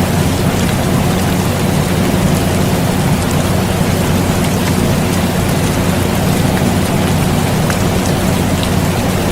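Steady air conditioner hum, with a low, even drone, mixed with rain falling steadily and small scattered drop ticks.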